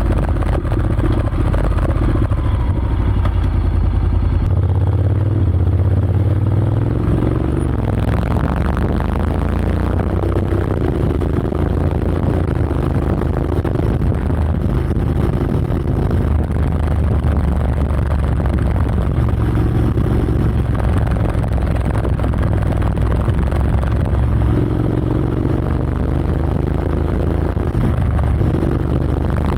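Honda X-ADV 750 parallel-twin engine running through an SC-Project SC-1R slip-on exhaust with the dB killer fitted, a steady low exhaust note whose pitch rises and eases a few times, about two seconds in and again near the end.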